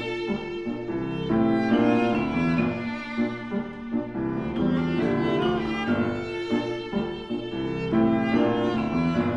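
Viola playing a sustained melodic line with piano accompaniment, the notes changing every half second or so.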